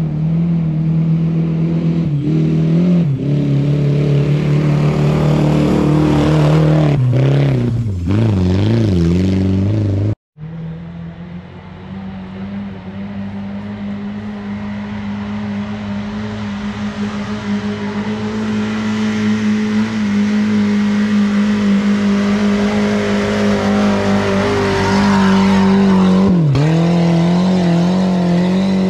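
Off-road 4x4 vehicle engine running under load, its revs rising and dropping unevenly, with an abrupt break about ten seconds in. It then settles into a long steady drone that slowly rises in pitch, with a brief dip in revs near the end.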